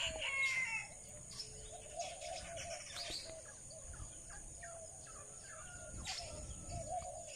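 Birds chirping and calling, faint. A louder falling call comes in the first second, then short chirps and a low wavering call recur.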